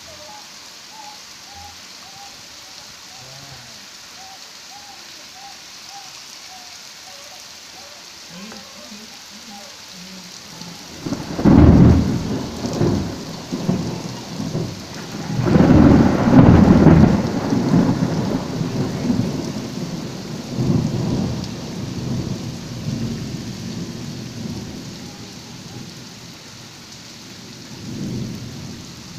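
Steady rain falling, with a long roll of thunder that breaks out about eleven seconds in, swells again a few seconds later and rumbles away over some fifteen seconds, with a last small rumble near the end.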